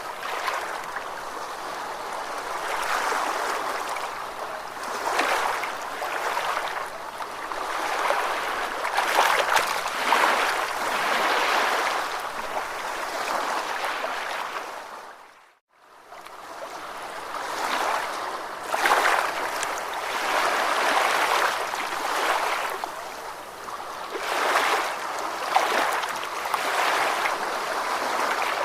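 Ocean waves washing in and out, the sound swelling and easing every few seconds. About halfway through it fades out to near silence for a moment and comes back in.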